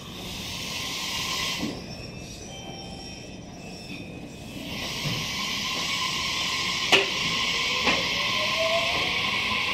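Meitetsu electric commuter train pulling out of a station: a hiss of air at the start, then a steady running noise with two sharp clunks and a rising motor whine near the end as it picks up speed.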